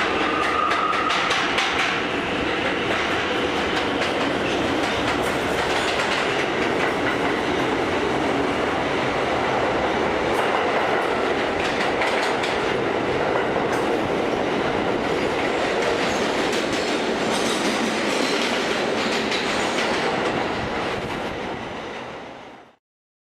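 R179 subway train running on the J line, wheels clicking over the rail joints, with a high whine in the first couple of seconds. The sound fades near the end and then cuts off suddenly.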